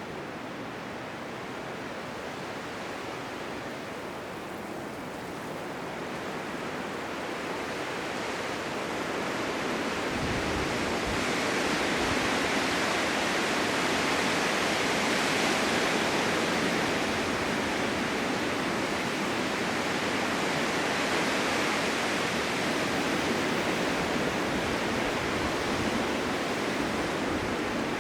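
Blizzard wind: a steady rushing noise that swells gradually over the first part and then holds at a louder level.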